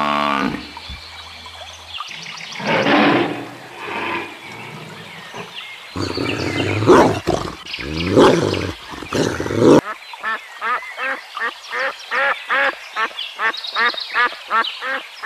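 Harsh animal calls in irregular bursts, then, about two-thirds of the way in, a duck quacking in a quick, even series of about three quacks a second.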